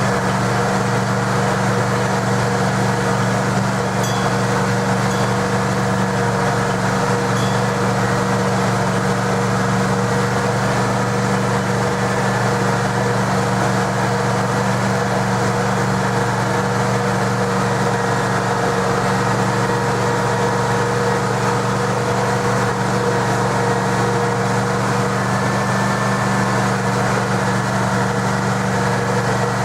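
Gasoline engine of a trackless road train running steadily, with an even hum that does not change.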